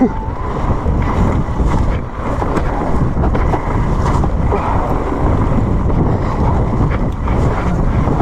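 Wind buffeting the microphone and the rumble of a mountain bike ridden fast over a rough, wet trail, with scattered knocks and rattles from the bike.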